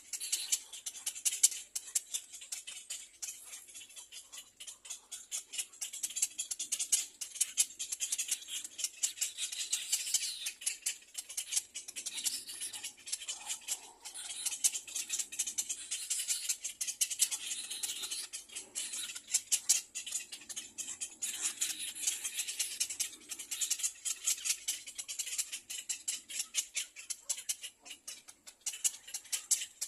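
Nestling birds giving rapid, raspy, rattling begging calls in the nest, high-pitched and continuous throughout.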